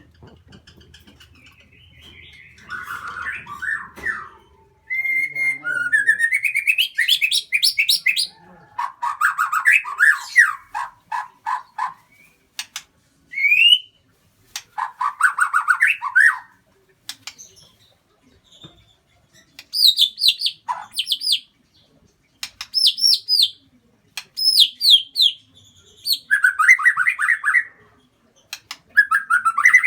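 Lovebird singing in bouts of rapid, shrill chirps, each run sweeping up and down in pitch, with short pauses between runs.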